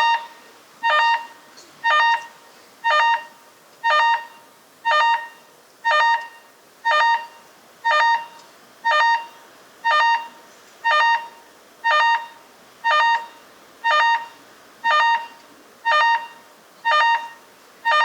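Electronic alarm tone beeping once a second at an even pace, each beep a short multi-pitched tone that quickly fades.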